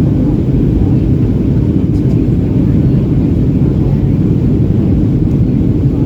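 Steady low rumble of engine and airflow noise inside the cabin of a Boeing 737-800 airliner.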